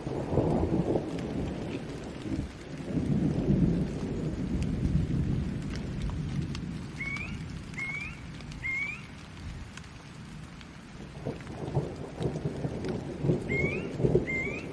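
Steady rain with rolling thunder rumbling in waves, swelling at the start, again a few seconds in, and near the end. Short rising chirps sound three times in quick succession about seven seconds in and twice near the end.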